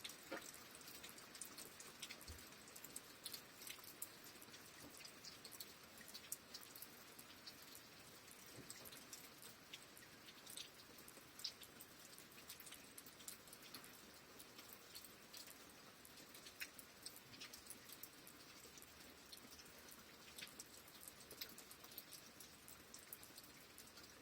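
Faint, steady rain with many scattered drops ticking and dripping over a soft hiss.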